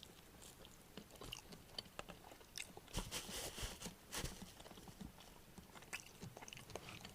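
Faint rustling and scattered light clicks of close handling, with a brief louder rustle about three seconds in and another about a second later.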